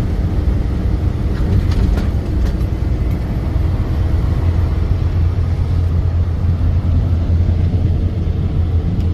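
Steady low drone of a semi-truck's diesel engine running.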